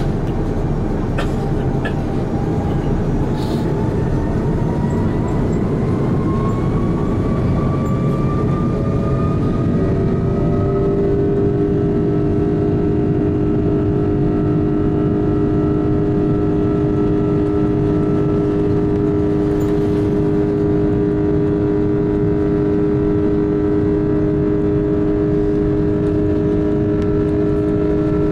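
Airbus A330-300 jet engines spooling up to takeoff thrust, heard from inside the cabin. A whine climbs steadily over about the first ten seconds, then holds as several steady tones over a loud, continuous rumble.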